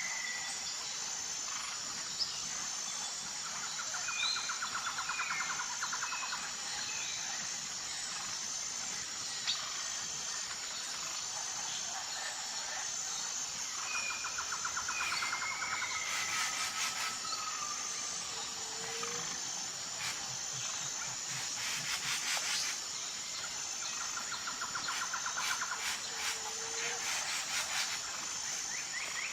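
Outdoor nature ambience: a steady high insect chorus runs throughout, with scattered short bird chirps and three spells of pulsing trills.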